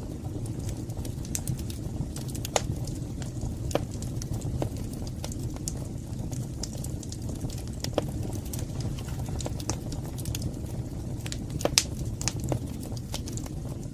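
Fire burning in a fireplace: a steady low rumble with irregular crackles and sharp pops, one louder pop near the end.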